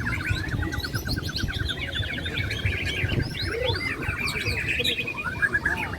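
Several caged songbirds sing over one another in dense, overlapping chirps, whistles and trills, including a rapid trill of about ten notes a second in the first two seconds. A low, steady background rumble runs underneath.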